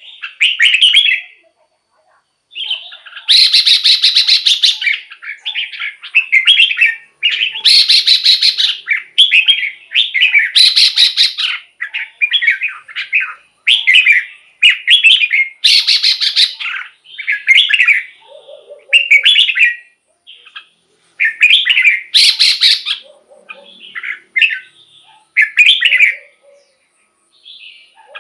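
Red-whiskered bulbul singing: a steady run of short, fluty warbled phrases. About five louder, raspier notes are mixed in, a few seconds apart.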